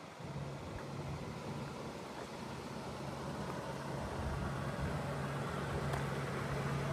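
1977 Cadillac Eldorado's V8 engine running with a steady low drone that grows gradually louder.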